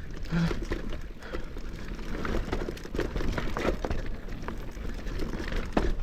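Mountain bike descending a steep dirt chute: tyres and bike clattering over dirt, roots and rocks, with many irregular clicks and knocks over a steady low rumble.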